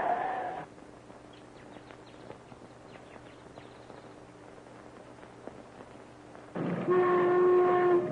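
A loud, steady horn-like tone fades out about half a second in. A quiet stretch with faint clicks follows, and the horn-like tone sounds again from about six and a half seconds in.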